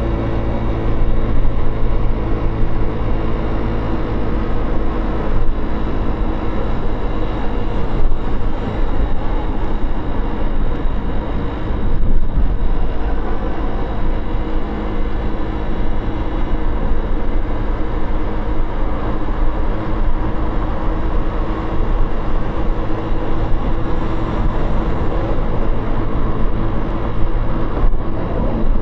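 Motorcycle engine running steadily under way, with heavy low rumble from wind and road.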